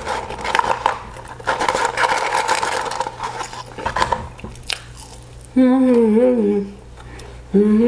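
McDonald's french fries being taken from the paper carton and chewed, with crackly rustling and crunching. About five and a half seconds in there is a short wavering hum, and another begins near the end.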